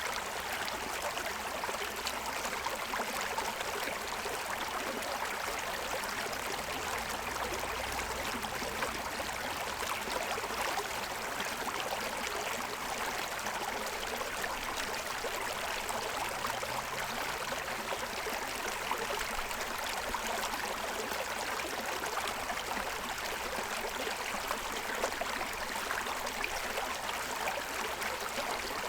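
Forest stream running and splashing over the stones of its bed, a steady rushing burble.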